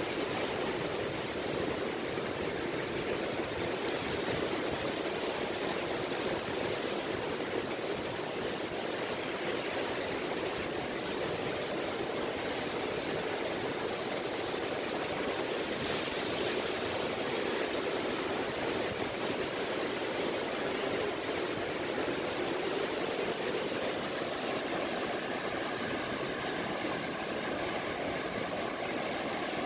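Small waves lapping on a beach, a steady wash of surf. From about three-quarters of the way through, a faint engine hum with a steady pitch joins in.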